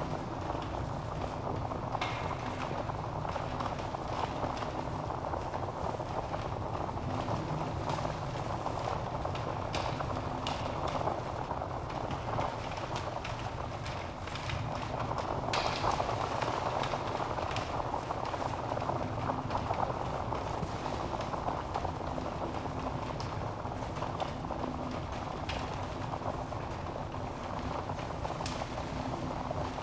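Wood fire burning in a fireplace: a steady low rush of flames with scattered sharp crackles and pops from the logs.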